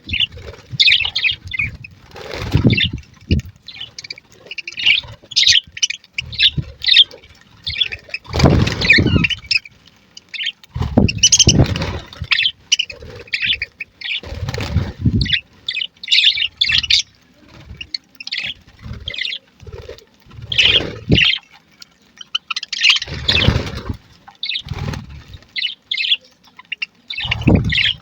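A flock of budgerigars chirping and chattering, many short high chirps overlapping throughout. Several loud low rumbles lasting about a second each come through the chirping.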